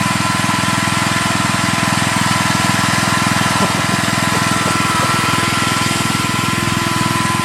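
Small engine running steadily with an even, rapid firing beat.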